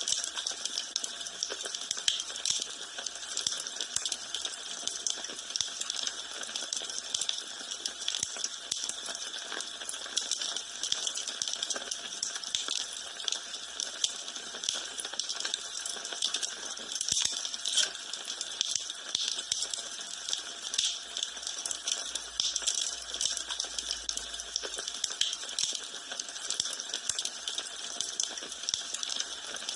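Wood fire in a fireplace crackling and popping, with quick irregular snaps over a soft hiss.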